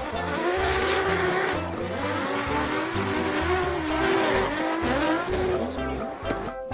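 Racing car engine sound effect, revving with its pitch rising and falling, over background music with a steady beat.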